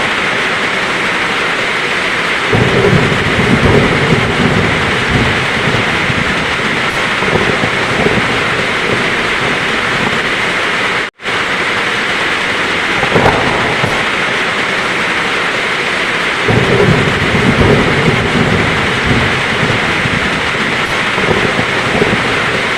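Heavy rain falling steadily, with a low roll of thunder about two and a half seconds in and another about sixteen seconds in. The sound cuts out for an instant about eleven seconds in.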